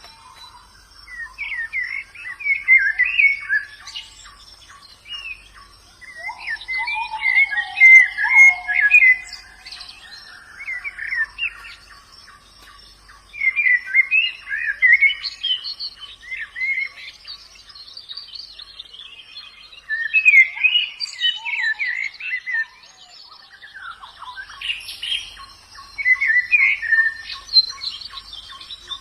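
White-eye (pleci) singing in bursts of fast, jumbled twittering phrases, each one to three seconds long, repeated about every four to six seconds.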